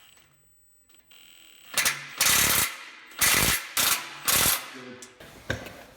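Ratchet wrench clicking through about five short strokes, about half a second apart, starting about two seconds in, as a bolt is tightened.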